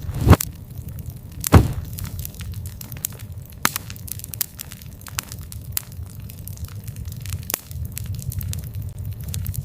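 Wood fire crackling, with frequent sharp snaps and two loud pops near the start, over a steady low rumble.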